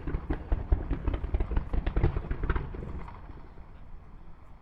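Fireworks crackling: a dense run of quick, irregular pops that thins out and fades after about three seconds.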